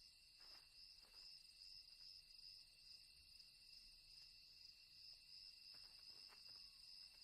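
Faint night-time cricket chorus: a steady high-pitched trill that holds unchanged, with a few faint ticks scattered through it.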